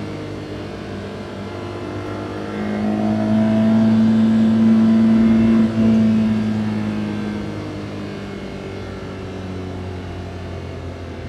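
Daihatsu Hijet kei van's small three-cylinder engine pulling under way. Its note picks up and grows louder about two and a half seconds in under acceleration, with a brief break near six seconds, then eases off and settles to a lower, steady run.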